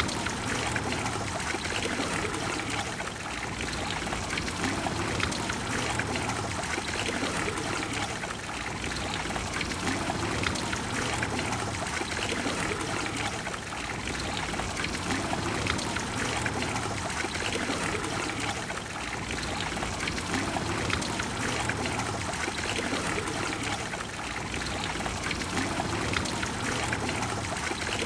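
Water of a large fountain splashing and cascading steadily, an even continuous rush with no pauses.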